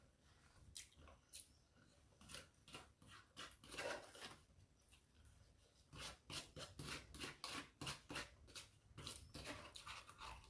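Faint, rapid chewing and mouth noises from eating momos quickly, in short clicky smacks that come at about three a second in the second half.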